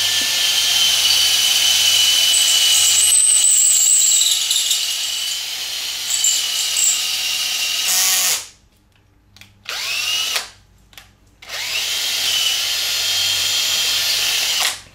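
Electric drill boring out an engine mounting hole, its motor whining steadily for about eight seconds before stopping. After a brief burst it spins up again and runs until near the end.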